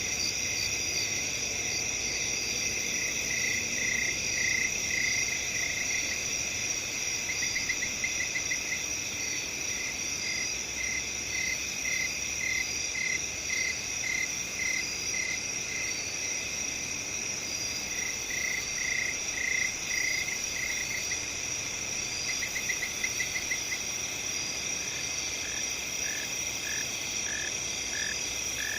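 A dense night chorus of crickets trilling steadily on several high pitches, with a lower chirping call repeating in short runs and, twice, a quick rapid trill.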